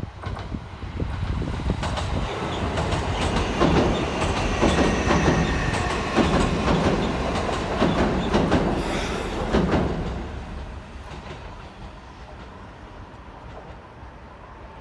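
JR Central 315 series electric commuter train passing, its wheels clattering in repeated groups over the rail joints. It builds over the first couple of seconds, is loudest for several seconds, and fades away about ten seconds in.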